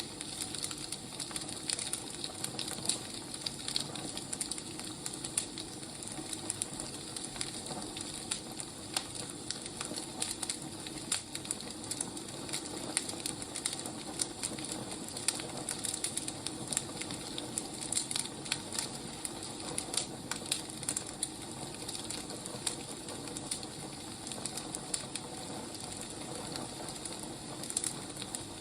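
Wood fire burning, with a steady hiss and frequent irregular crackles and pops.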